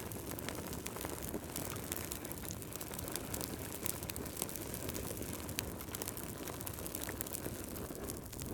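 Wood fire crackling in a fireplace: a steady hiss scattered with many small, sharp pops and snaps.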